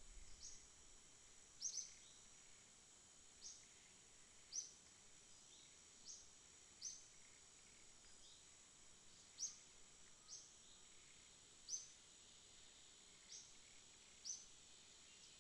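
Night ambience of insects: a faint, steady, high-pitched drone with short, sharp, high chirps repeating irregularly about once a second.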